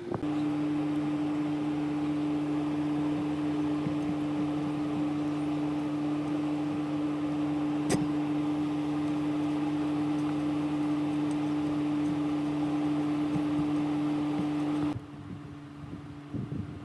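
A small machine running with a steady, even-pitched hum that cuts off suddenly near the end, with one sharp click about halfway through.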